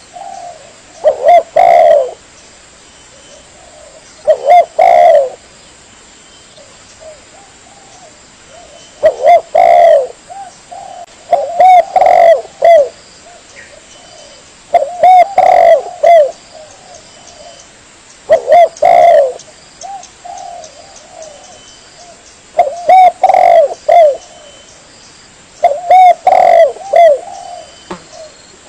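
Spotted dove cooing: loud phrases of a few quick coos repeated every three to four seconds, with a fainter dove cooing between them.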